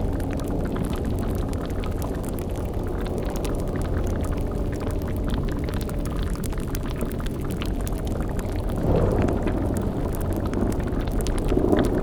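Layered spooky ambience: a steady low drone under a bubbling, crackling cauldron-like boil full of small pops. Two short low swells rise out of it, one about nine seconds in and one near the end.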